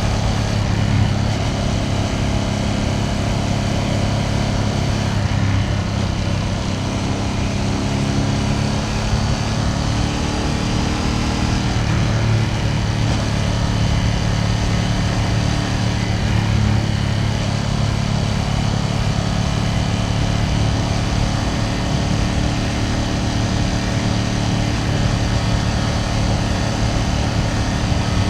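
Ducati Panigale V2S's V-twin engine and exhaust running steadily under way at a relaxed cruise, its pitch shifting a little now and then with the throttle.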